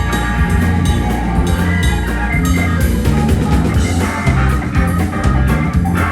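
Live country-rock band playing an instrumental passage: electric guitar, bass and drum kit with a steady beat and no vocals.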